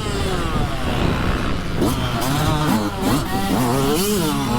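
Several dirt bike engines revving, their pitch rising and falling over and over as the bikes accelerate and back off.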